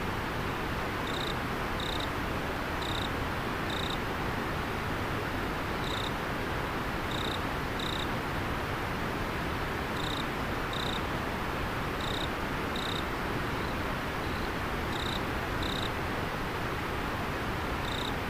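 River water flowing, a steady rushing, with an insect chirping over it: short high chirps, mostly in pairs, repeating about every one to two seconds.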